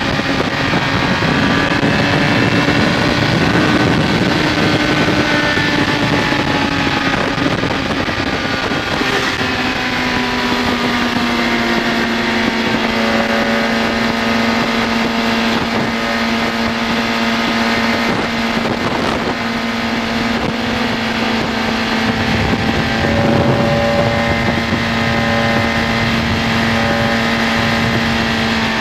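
BMW K1200S inline-four engine running under way, its revs rising and falling for the first ten seconds or so, then held steady, with wind rush over the microphone.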